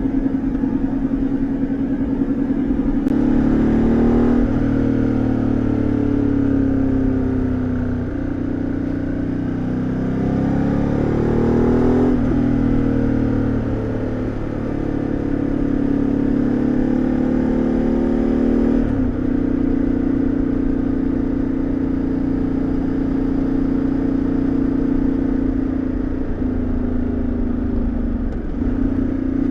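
Ducati Multistrada 1200S's 1198 cc Testastretta L-twin exhaust under riding: the engine note climbs and drops repeatedly with throttle and gear changes through bends during the first two-thirds, then holds a steady cruising note from about two-thirds of the way in.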